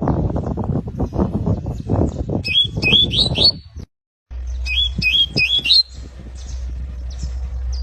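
Canary singing a short phrase of four quick, repeated swooping notes, over loud low crackling and thumping noise. After a brief gap the same phrase comes again over a steady low hum, followed by a few fainter chirps.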